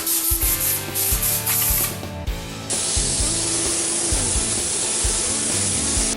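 Compressed-air spray gun spraying primer-surfacer onto a car body in two long passes of steady hiss, the second starting about three seconds in, over background music.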